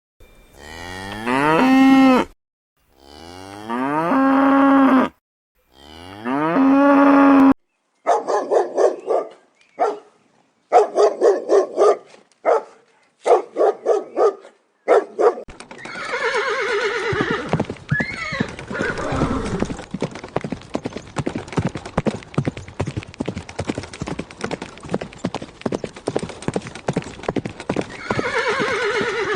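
A cow mooing three times, each a long call of about two seconds. Then comes a run of shorter, pulsed animal calls, and then a steady, noisy stretch with rapid clattering and a couple of brief calls.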